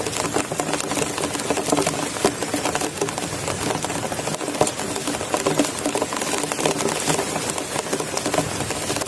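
Heavy rain falling hard, a dense, fast, even patter of drops striking a surface close by.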